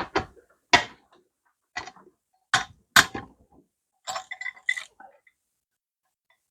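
Sharp metallic clinks and knocks from hand tools and engine parts being handled, about six separate strikes. A quicker run of small clinks with a brief metallic ring follows a little past halfway.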